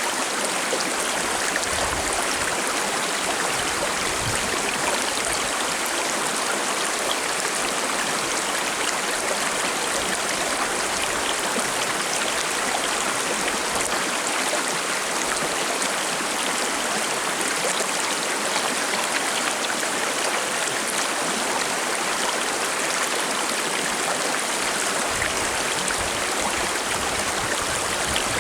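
Shallow forest stream running and babbling steadily over rocks.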